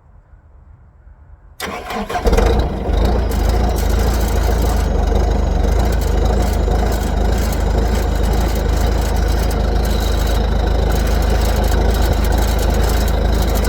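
Skid steer engine cold-started after sitting unused for a few months: it cranks briefly, catches about two seconds in, and then runs steadily.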